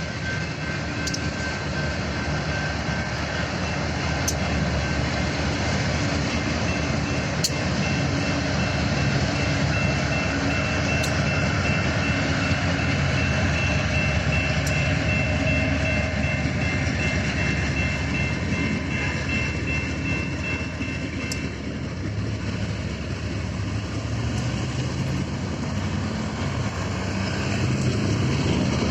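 BNSF manifest freight train's cars rolling past on the rails in a steady rumble of wheels, with occasional sharp clicks. High, thin steady squeals ring over it and stop about two-thirds of the way through.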